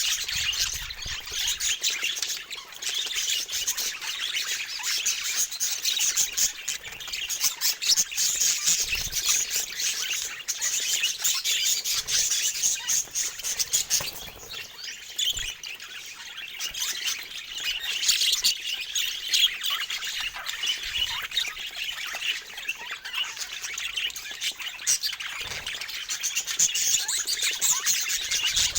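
Budgerigars chirping and chattering without a break: a dense, busy stream of high chirps and warbles.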